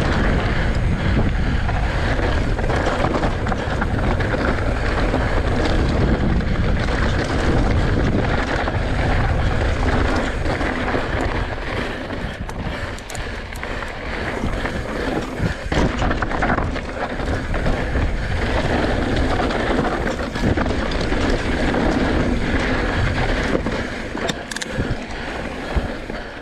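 Wind buffeting an unshielded action-camera microphone on a fast mountain-bike descent, mixed with tyre noise over dirt and rock and sharp rattles from the bike. The noise eases somewhat near the end.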